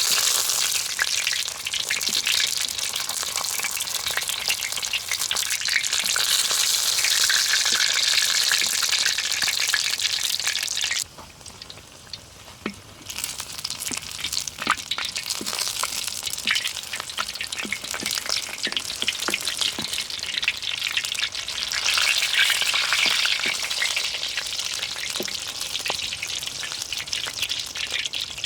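Food frying in hot oil in a pan, a steady sizzle with many small crackles. It drops away sharply about eleven seconds in, then sizzles again about two seconds later.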